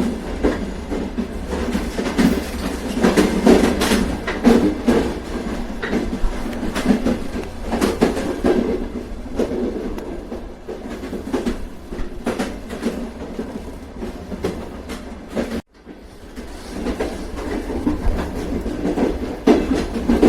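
A train running on the rails: a steady rumble with the wheels clacking over the rail joints. About three-quarters of the way through, the sound cuts out for an instant and then swells back.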